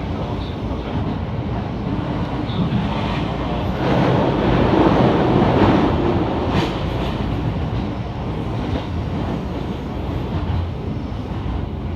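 Train running on the rails: a steady rumble of wheel and track noise that swells louder about four seconds in and eases back after about six.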